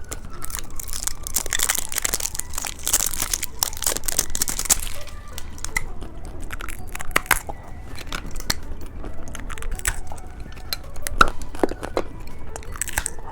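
Plastic candy wrappers crinkling and tearing, with sharp crunches and clicks of hard candy being handled and bitten, loudest in the first few seconds.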